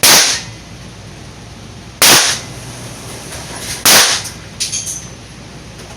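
Three pistol shots, about two seconds apart, each with a short echo, followed by a few light clicks.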